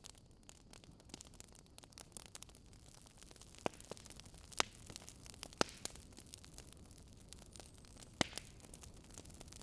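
Wood fire crackling softly over a faint steady hiss, with a few sharper pops at irregular intervals.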